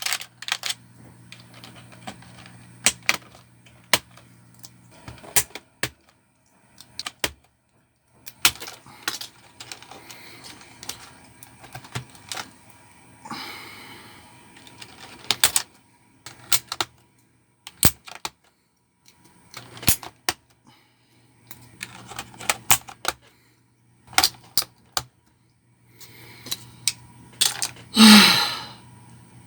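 Scattered sharp plastic clicks and clacks from a Xenics K3 computer keyboard being handled and taken apart for cleaning, with a short rattle about halfway through and a louder clatter near the end.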